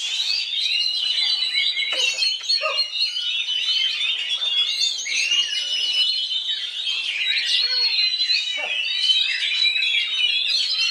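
Oriental magpie-robin (kacer) singing a continuous song of quick, varied chirps and trills mixed with short held whistles.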